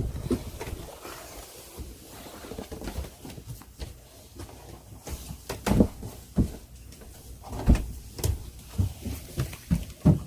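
Irregular knocks and thumps of hatches, doors and fittings being opened and handled, with the loudest knocks about six and eight seconds in.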